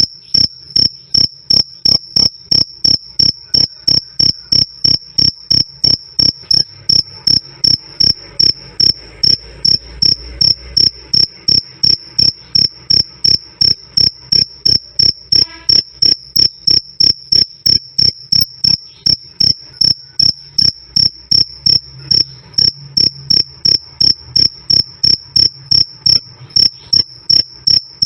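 A cricket chirping loud and clear, a steady "krik krik" of short high-pitched pulses repeating evenly about three times a second.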